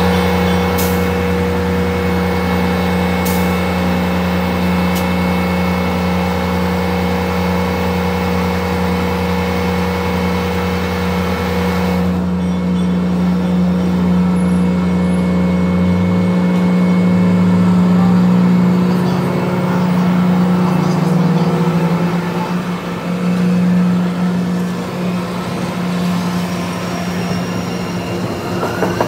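An MBTA Commuter Rail diesel locomotive's engine gives a loud, steady drone, played at double speed; the drone drops away and changes after about halfway. Near the end, an Orange Line subway train's motors give a rising whine as it moves off.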